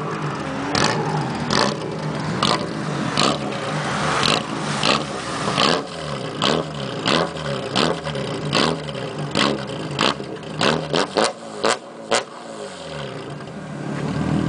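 BMW E36 Compact engine with straight-through twin exhaust pipes revved hard over and over while standing still. Each rev climbs and falls in pitch with a sharp burst at its peak, about one a second. The revs come quicker for the last few, then it drops back toward idle near the end.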